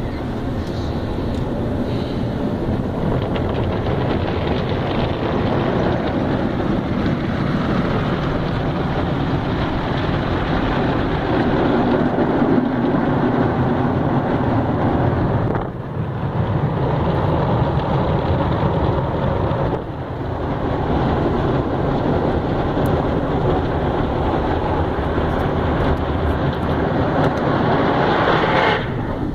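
Automatic car wash running over the vehicle: a loud, steady rush of spraying water and machinery, with two brief dips about 16 and 20 seconds in, cutting off suddenly near the end.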